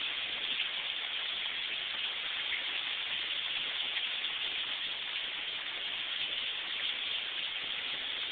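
Heavy rain falling steadily, a constant even hiss of rain on the ground and surfaces during a thunderstorm downpour.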